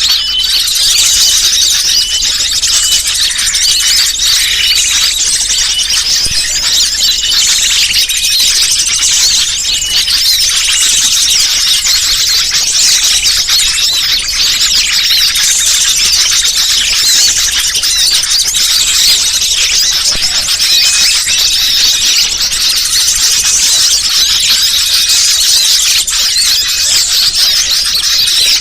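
Bird-lure call recording: a dense, unbroken stream of rapid, high-pitched chirps and squeaks from small birds, played continuously to attract wild birds.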